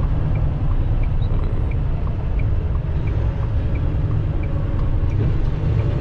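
Steady low engine and road rumble inside a semi-truck's cab, with a turn signal ticking on and off, about three clicks a second.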